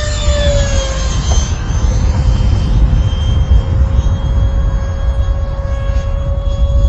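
RC F-22 Raptor electric ducted fan jet in flight, its fan whining steadily; the pitch drops in the first second, then holds. A loud low rumble of wind on the microphone runs underneath.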